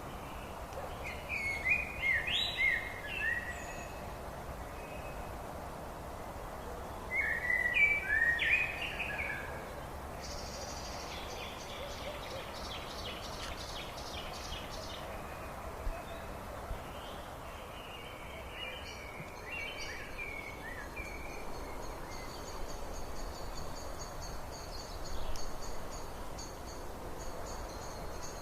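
Wild birds singing short, loud, warbling phrases, the loudest about two and eight seconds in, over a steady background hiss. A fast, high, evenly pulsing trill joins in the second half.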